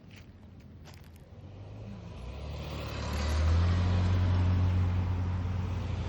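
A car approaching and driving past close by, its engine and tyre noise growing steadily louder to a peak about halfway through.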